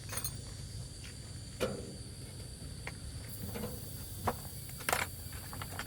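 A few scattered light knocks and clicks, four or so, the loudest near the end, over a steady low background rumble.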